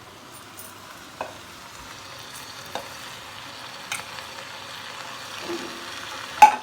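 Mixed vegetables and leafy greens sizzling in a hot pan as they are stirred, with a spatula clinking against the pan a handful of times, the loudest near the end.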